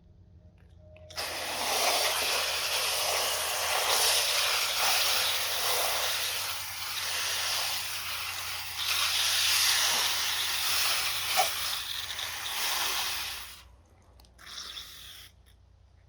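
Steady hissing spray of water that starts suddenly about a second in, runs for about twelve seconds and cuts off, followed by a short second burst of spray.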